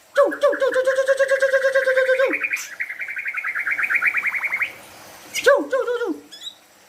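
White-rumped shama singing. A fast run of repeated notes lasts about two seconds, a second quick run of rising notes follows, and a short burst of notes comes near the end.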